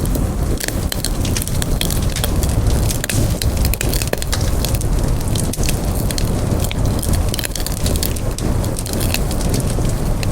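Wood fire burning, with many sharp crackles and pops over a steady low rumble of flame.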